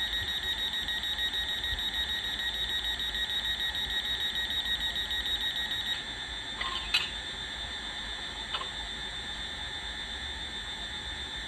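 Electronic sound from the DCC sound decoder of a Hornby OO gauge Hitachi Class 800 model: a steady, high, fast-pulsing alarm-like tone, louder for the first six seconds and then softer, with a couple of short clicks in the second half.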